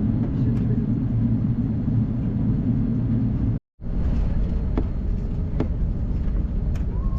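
Steady low cabin rumble of an Airbus A380 airliner, broken by a sudden cut about halfway through, then resuming with a few faint clicks.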